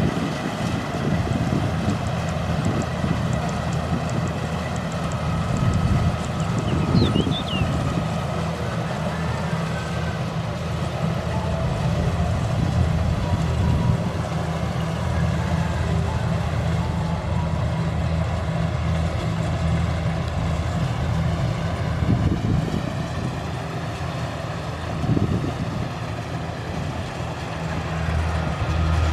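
Kubota rice combine harvester's diesel engine running steadily under load, with wind buffeting the microphone now and then.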